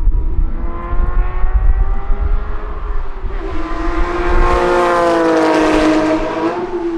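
A high-performance car engine at high revs, with one steady engine note that grows louder to a peak about five seconds in. The pitch dips near the end as the car passes by.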